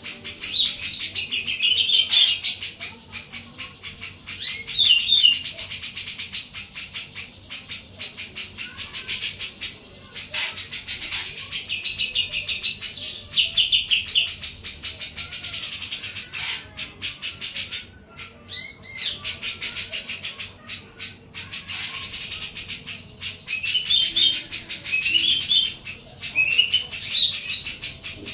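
Jenggot jawa songbird singing loud, rapid trilled phrases, repeated every couple of seconds, over a steady run of faint clicks.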